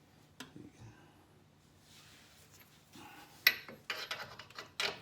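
Metal hand tools clinking and clicking on the car's suspension hardware: a few light taps, then a sharp click about three and a half seconds in followed by a quick run of small clicks and rattles.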